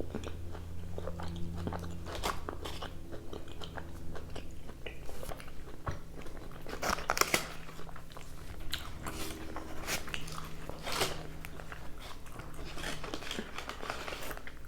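A person chewing and biting into carne asada fries close to the microphone, with many short, irregular wet mouth clicks.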